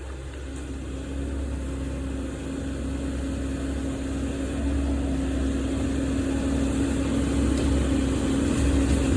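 An engine running steadily with a constant hum and low rumble, gradually getting louder.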